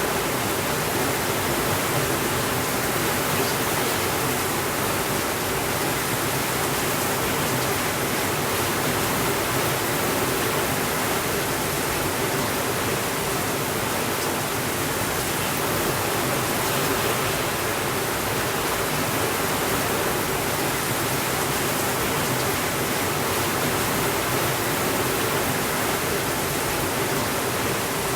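Heavy rain falling steadily, a continuous even hiss with no breaks or changes in level.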